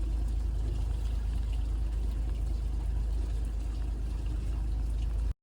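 Steady low rumble of a boat running, with a wash of water noise over it, cutting off abruptly near the end.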